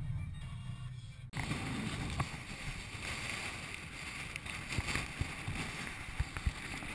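Wind and water noise: a steady hiss with scattered low thumps of gusts hitting the microphone. It starts abruptly just over a second in, after a low hum dies away.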